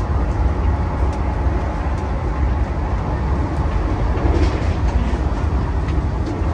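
Steady low rumble of a moving Vande Bharat Express train heard inside the passenger coach, with a few faint light clicks about four seconds in.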